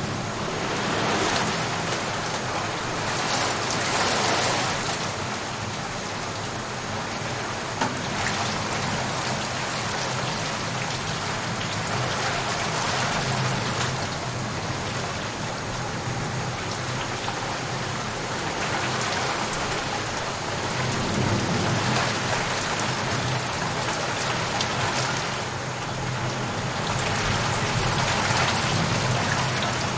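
Steady heavy rain, swelling and easing every few seconds, with a low rumble underneath at times.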